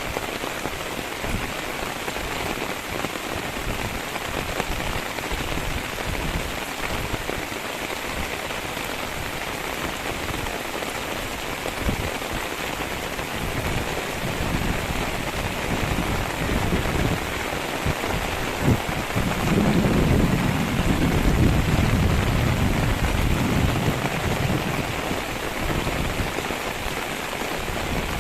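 Steady hiss of water rushing and splashing as the flooded Barak river spills over into the land beside it, with a louder, deeper stretch about two-thirds of the way through.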